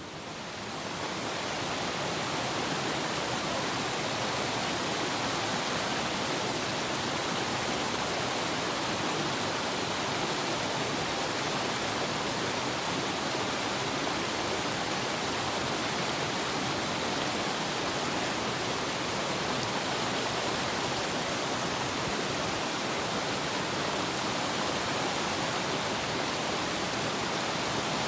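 Mountain stream water rushing steadily over rocks. It rises over the first second or two, then holds.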